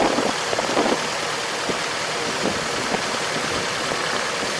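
Farm machine engine running steadily.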